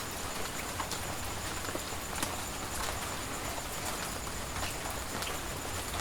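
Steady rain falling, with scattered individual drops tapping sharply on nearby surfaces, and a thin steady high tone running underneath.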